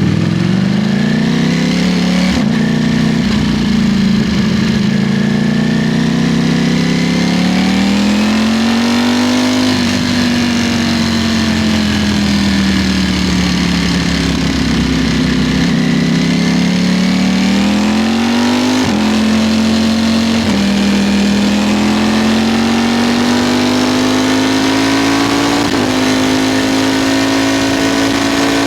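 Ducati Streetfighter V4 sportbike's engine running hard on a fast ride, its pitch rising and falling with the throttle. There are several sudden steps in pitch at gear changes, over steady wind rush.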